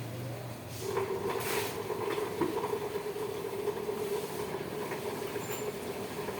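A pump motor starts humming steadily at one pitch about a second in, with short bursts of hissing spray, as the valve rocker-arm area of a truck engine is washed out.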